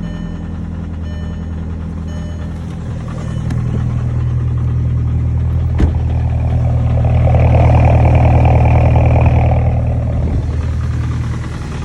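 VW Passat TDI diesel engine running cold after a start in deep cold. It swells louder for several seconds in the middle, then settles back to a steady idle, with one sharp click about six seconds in.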